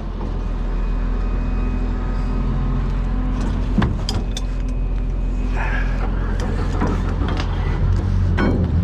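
A small boat's motor running steadily at a constant speed, with a couple of short knocks about four seconds in.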